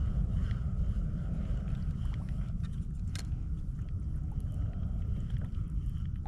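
A low, irregular rumble of wind buffeting the microphone on the open water, with a few light clicks about halfway through.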